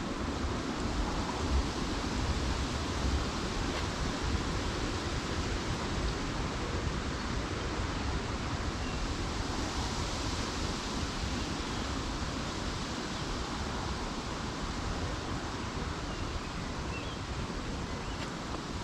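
Steady wind noise, even and unbroken, with a few faint high bird chirps in the second half.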